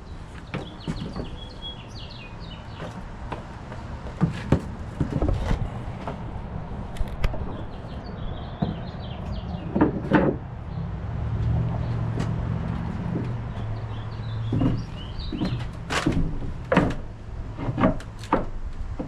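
Irregular knocks and thuds, with birds chirping at intervals and a low hum that swells for a few seconds in the middle.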